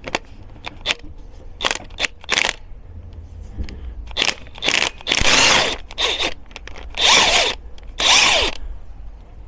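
Cordless power tool with a 17 mm socket spinning on a shock absorber's top nut in three or four short bursts, each winding down as the trigger is let off, after a few sharp clicks. The nut won't come undone because the shock absorber's shaft turns with it.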